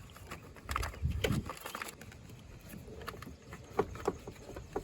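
Light scattered clicks and knocks of hands and parts being handled while working on a car's engine bay, with a couple of dull thumps a little after a second in.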